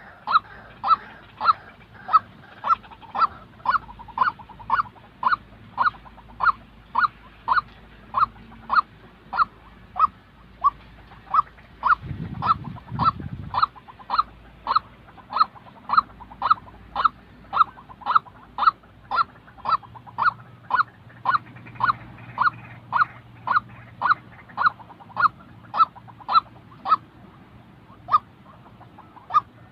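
White-breasted waterhen calling: one short, harsh note repeated evenly, about twice a second, without a break. A brief low rumble comes about twelve seconds in.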